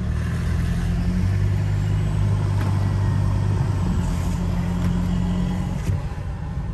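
Toyota Prado 150's 2.8-litre turbo-diesel engine pulling gently at low road speed, with the intake noise of its snorkel, heard from inside the cabin. The engine note is steady and shifts slightly about four seconds in.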